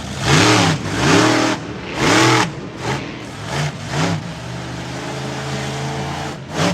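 Monster truck engine revving in three loud throttle bursts, each rising and falling in pitch, then three shorter blips. It settles into a steady idle about four and a half seconds in.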